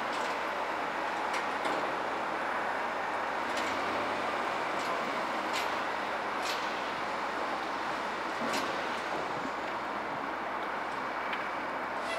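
Steady rushing noise of heavy vehicles at work, with a handful of sharp clanks scattered through it.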